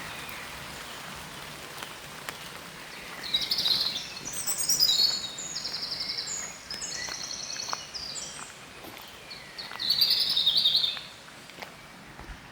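Small songbirds singing: rapid, high trilled phrases about three seconds in that run on for several seconds, and another loud burst near ten seconds, over steady outdoor background noise.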